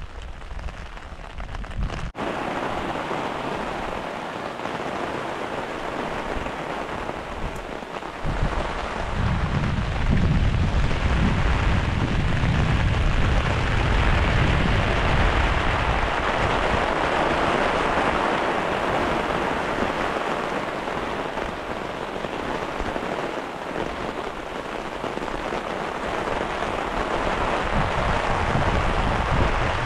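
Heavy rain pattering on a hot tent's fabric and the grass around it, a steady hiss that grows louder about two seconds in. A low rumble of thunder swells about a third of the way through.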